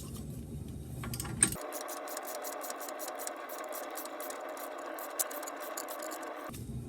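A few metal clinks, then from about a second and a half in a ratchet clicking in a rapid, even series for about five seconds, running the axle nut down onto the new front hub assembly, until it stops near the end.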